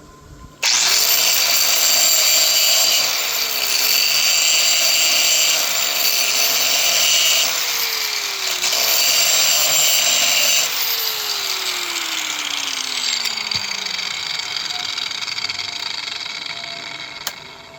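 A hand-held electric power tool starts abruptly and runs at high speed, its pitch dipping briefly three times. It is released and its motor winds down, the whine falling steadily in pitch over about three seconds.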